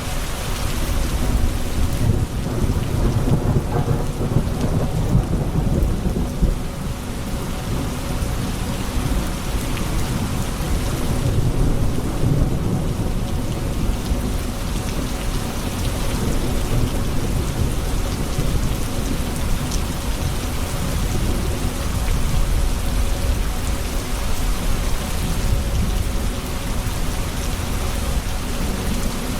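Thunderstorm: steady rain falling, with low rolling thunder that swells a couple of seconds in and again near the middle.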